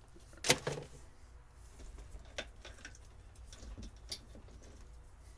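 One sharp click or snap about half a second in, followed by a few lighter clicks and taps from hands and tools working on old boat wiring.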